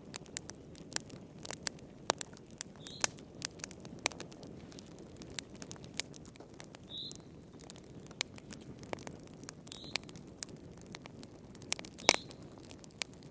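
Wood fire burning in a fireplace: a low steady rumble of flame with irregular crackles and pops, the loudest pop about twelve seconds in. A short faint high note recurs every few seconds.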